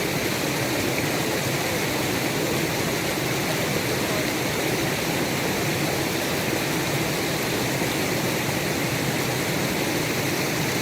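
Small woodland stream running over rocks: a steady, even rush of flowing water.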